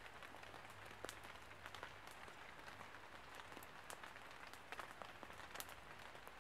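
Faint steady rain pattering on leaves and the forest floor, with scattered sharp crackles and ticks from a small campfire.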